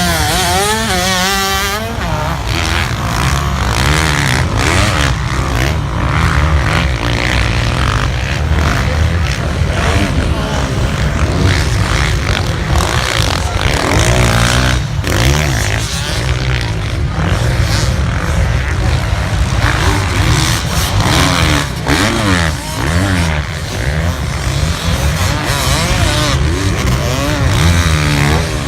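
Several racing motorcycles running hard on a beach circuit, their engines revving up and down in overlapping passes throughout.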